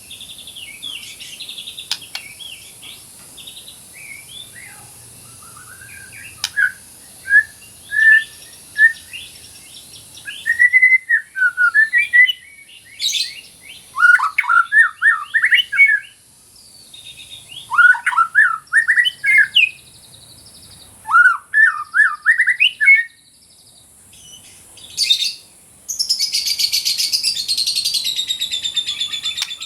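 White-rumped shama (murai batu) singing a run of short, varied whistled phrases with brief pauses between them. Near the end it breaks into a dense, rapid rattling trill.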